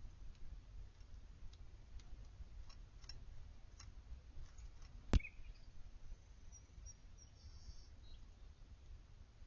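Scattered faint clicks and one sharp click about five seconds in, with a few faint, high, short bird chirps after it, over a low outdoor rumble.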